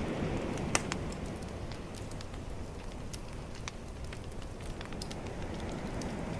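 Bonfire crackling with scattered sharp pops, one louder snap just under a second in, over a steady low wash of calm ocean waves.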